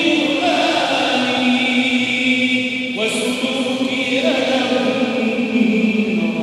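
Islamic religious chant (inshad) in the Naqshbandi style, with voices holding long drawn-out notes. The pitch steps to a new note about three seconds in.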